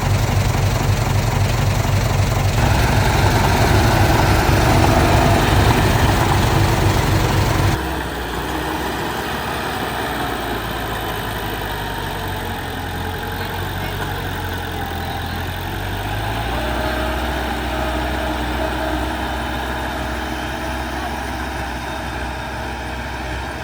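Heavy diesel earthmoving machinery running, its engine sound loud and dense at first, then changing abruptly about eight seconds in to a quieter, steady engine.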